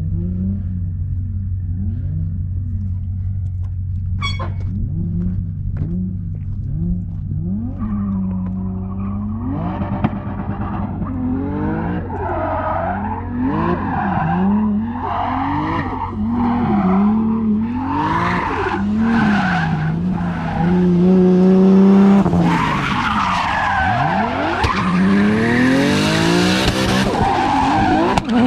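Nissan S15 Silvia drift car's engine revving up and down over and over as it drifts, with tires squealing. It grows louder in the second half.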